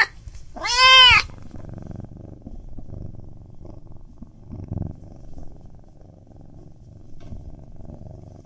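A domestic cat meows once, a loud call that rises and then falls in pitch, about a second in. Then comes a much quieter, steady low purring.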